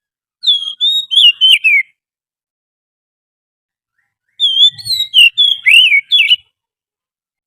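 Oriental magpie-robin singing: two short phrases of quick, clear whistled notes that slide up and down, separated by a pause of about two and a half seconds.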